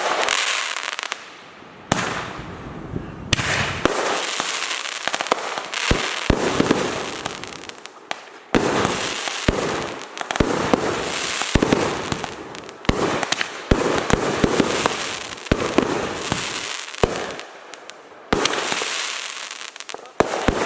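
Fireworks display: aerial shells going off with sharp bangs about once a second, each followed by a long hiss that fades before the next.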